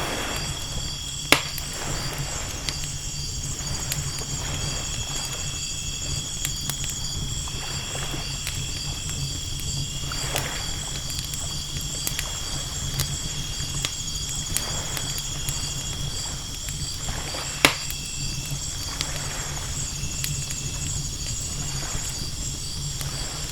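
Layered night ambience of ocean waves washing in over a low steady rumble, with a campfire crackling and giving two sharp loud pops, about a second in and again near the end. A steady high pulsing chirr of night insects runs over it all.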